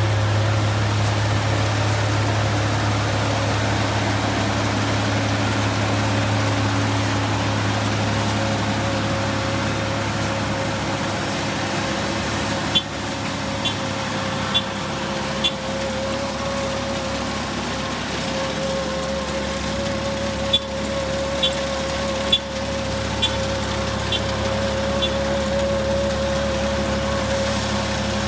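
Rice combine harvester's engine running steadily. Two short runs of sharp clicks come partway through.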